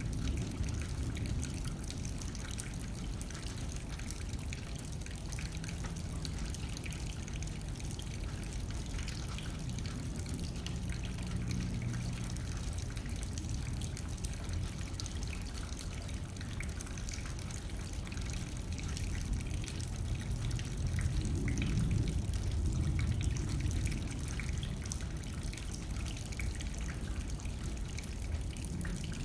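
Rain pattering steadily on a window pane, with wind blowing underneath as a low rumble. The wind swells in a stronger gust about two-thirds of the way through.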